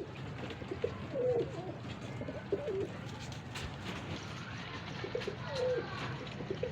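Domestic pigeons cooing in a loft: low, gliding coos come in short phrases a few times, over a steady low background hum.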